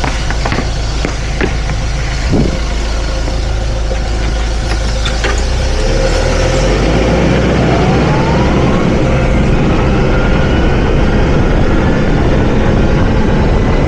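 Hyster H100FT forklift engine running, with a few knocks and clunks in the first seconds; about six seconds in it revs up with a rising whine and keeps running louder.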